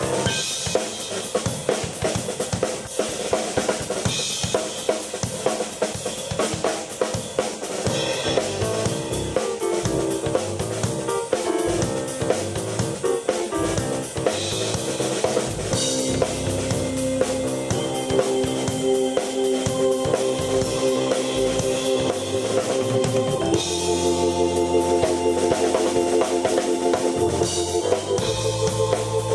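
Live keyboard and drum-kit duo playing a rock jam: the drums keep a steady beat with kick, snare and rimshots, and the keyboard plays sustained chords that change about two thirds of the way in.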